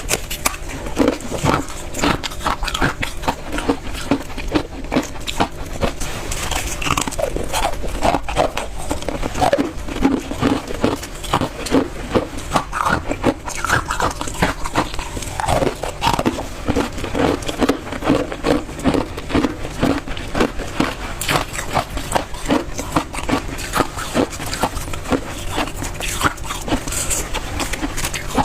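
Close-miked biting and chewing of hard frozen ice fresh from a freezer: a dense, continuous run of crisp crunches and cracks.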